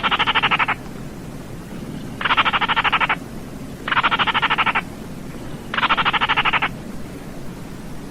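Baillon's crake giving its dry, frog-like rattling call: four rattles of under a second each, roughly two seconds apart, each a rapid run of even pulses.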